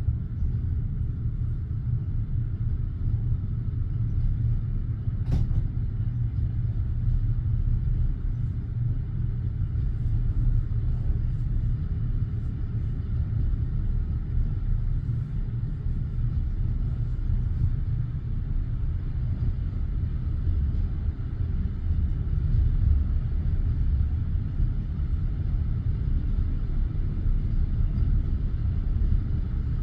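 Steady low rumble of a passenger train standing at a station, with no rhythmic clatter of wheels over rail joints. One sharp click about five seconds in.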